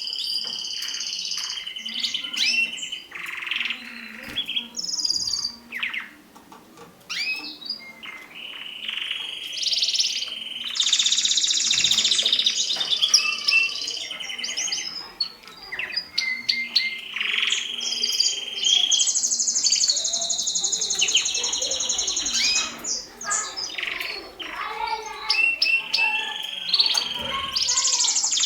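Mosaic canaries singing: long, fast, high trills and warbled phrases, one after another with hardly a break.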